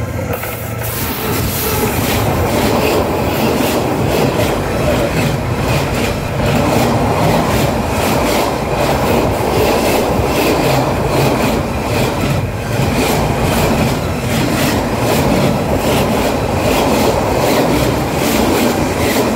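A train hauled by a diesel locomotive rolls directly over a camera lying between the rails. The wheels clatter on the rails in a loud, steady run of repeated clicks, which builds over the first couple of seconds.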